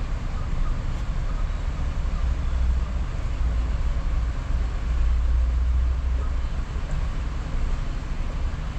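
Moving car heard from inside the cabin: a steady low rumble of engine and road noise that swells slightly midway.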